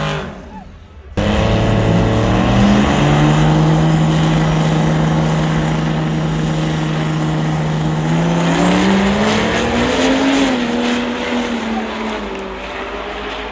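Truck engine running hard at high revs. It starts abruptly after a brief lull, holds one steady note for several seconds, then climbs in pitch and eases off slightly near the end.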